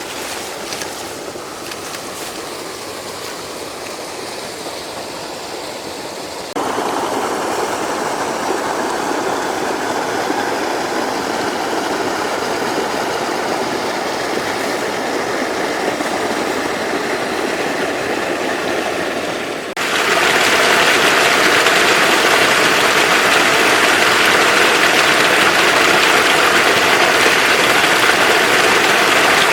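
Floodwater rushing, a steady noise that jumps louder suddenly about six seconds in and again about twenty seconds in.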